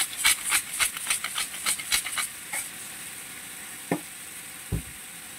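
Lumpia filling of minced pork, carrots and green beans sizzling in a wok just after soy sauce is added, stirred with a quick run of scraping strokes for the first two and a half seconds or so. Then steady sizzling, with two single knocks near the end.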